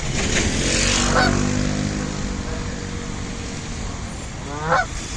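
Canada geese honking: a short honk about a second in and a louder one near the end. Under the first few seconds a passing motor vehicle's engine runs, its pitch falling slightly as it goes by.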